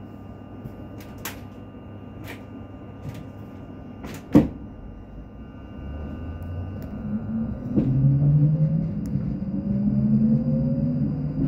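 Class 458/5 electric multiple unit pulling away: a steady hum with a few clicks and a sharp knock about four seconds in, then the traction motors start and whine, their tones rising steadily in pitch as the train accelerates.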